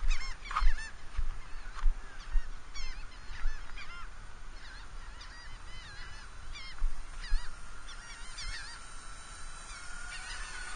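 Repeated short honking bird calls throughout. From about halfway a steady whine builds and climbs slightly in pitch near the end: the electric motors of a Dynam Sky Bus C-47 RC airplane in flight.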